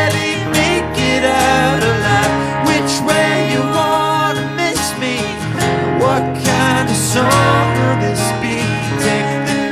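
Indie folk band playing live: acoustic guitar with singing voices in harmony.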